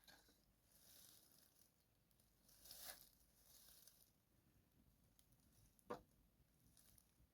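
Near silence with faint rustling handling noises and a single sharp click about six seconds in.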